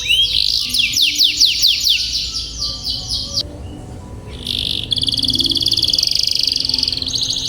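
Domestic canary singing: fast runs of repeated sweeping notes, then a short break about halfway through before a long, fast rolling trill.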